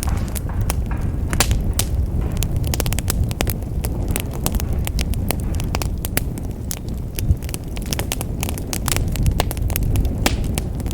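Wood fire crackling in a fireplace: many irregular sharp snaps and pops over a low, steady rumble of the burning logs.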